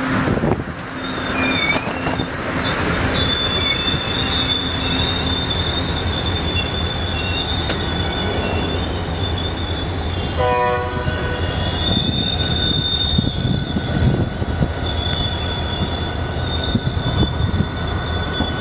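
Amtrak passenger train cars rolling slowly past the platform, with a steady high-pitched squeal from the wheels on the rails over a low rumble. A brief horn note sounds about ten seconds in.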